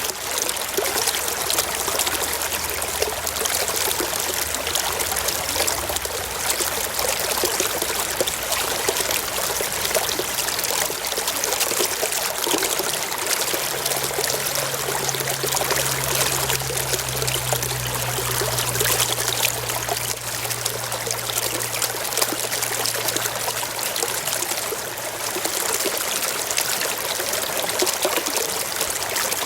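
Brook water running and trickling over rocks in a steady, even rush. A faint low hum sits underneath it for several seconds in the middle.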